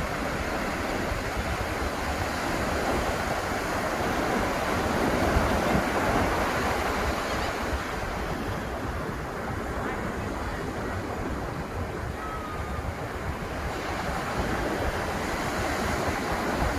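Ocean surf breaking and washing up the beach, a continuous rush that swells about five seconds in, eases off in the middle and builds again near the end.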